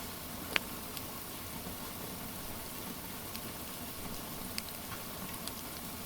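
Steady rain hiss with a crackling wood fire: scattered sharp pops and snaps, the loudest about half a second in.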